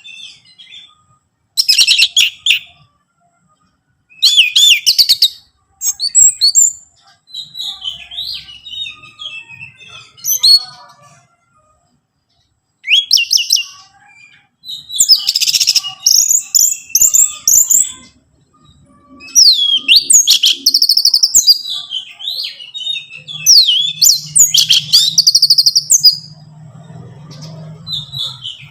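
Orange-headed thrush singing: loud, rapid phrases of high whistles and trills, a second or a few seconds long, with short pauses between them.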